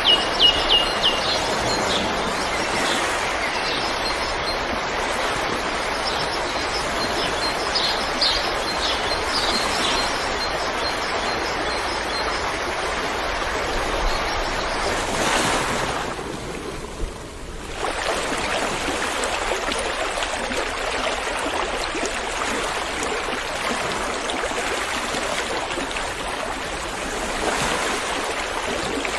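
River water rushing steadily. A few bird chirps sound near the start and again faintly later on. The rush briefly thins out about halfway through.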